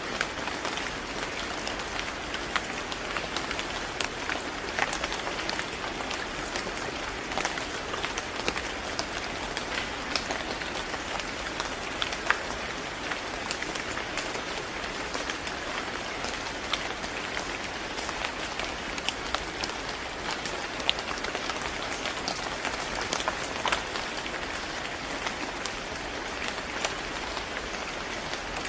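Steady rain falling on a surface, a constant hiss with many individual drops pattering and ticking sharply throughout.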